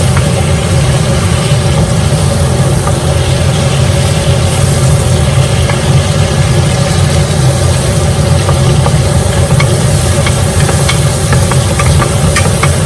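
Mustard seeds, fennel and tomatoes frying in hot oil, sizzling with scattered small pops, over a loud steady low hum.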